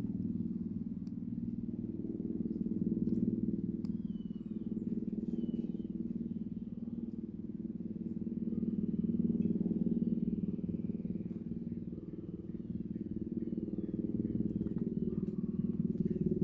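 Helicopter flying figure-eight patterns, a steady drone that swells and fades over several seconds as it comes nearer and moves away.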